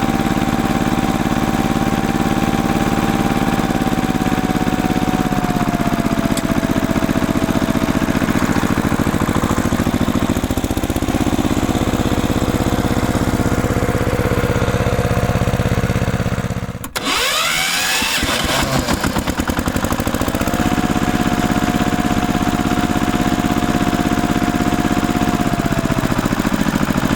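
An engine running steadily, its pitch stepping down a few times. It breaks off sharply about 17 seconds in, then resumes.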